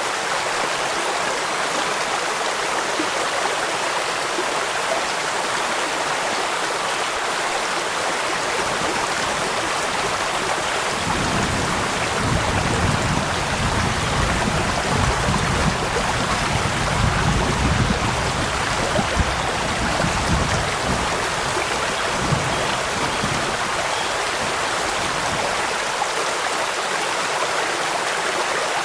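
Steady rain with flowing stream water, an even hiss. About a third of the way in, a low rumble swells underneath for about ten seconds, then fades.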